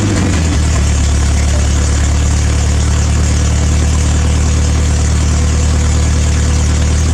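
Toyota 4Y four-cylinder petrol engine running after a missing coil lead was refitted. Its revs drop slightly about half a second in, then it holds a steady idle.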